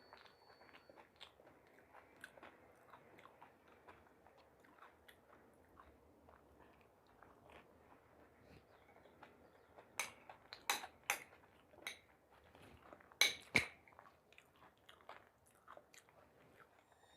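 Close-up eating sounds: quiet, steady chewing of food. Several sharp clicks stand out as the loudest sounds, a group of three about ten seconds in and two more about three seconds later.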